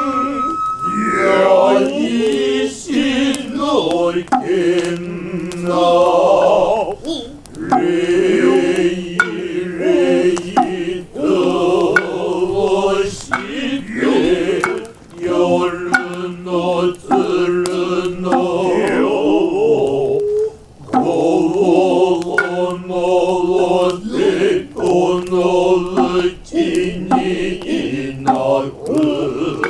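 Male Noh chanting (utai) in the Kanze style: long, wavering held notes in a low register, breaking off and starting again, with sharp knocks scattered throughout. A held high flute note stops about a second in.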